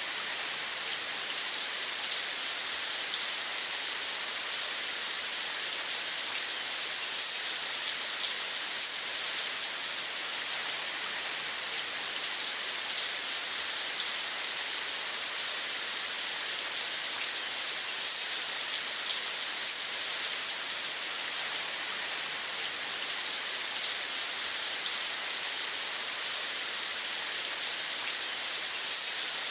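Steady rain falling, an even hiss of many fine drops that does not change.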